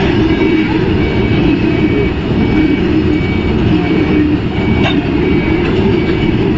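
Freight train of covered boxcar wagons rolling past at close range: a steady heavy rumble of steel wheels on rail, with a single knock about five seconds in. A faint short high tone repeats evenly above the rumble.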